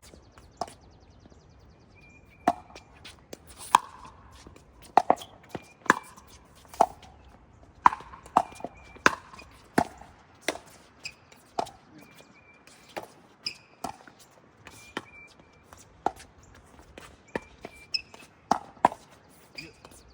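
Pickleball rally: paddles striking the plastic ball in a long series of sharp pops, about one every half second to a second, with some softer hits between.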